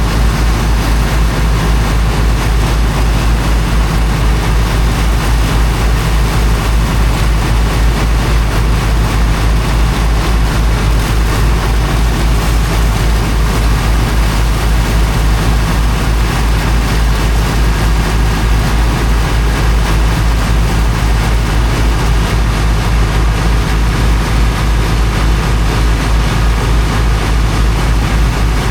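Heavy engine of a high-pressure water pump running steadily with a fast, regular low throb, a constant rushing haze over it.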